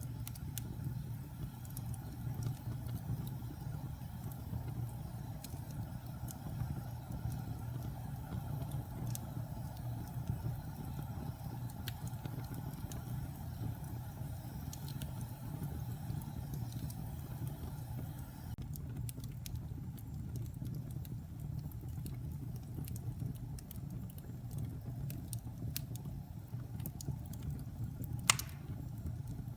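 Wood fire burning in a fireplace: a steady low rumble with scattered small crackles, and one sharp pop near the end.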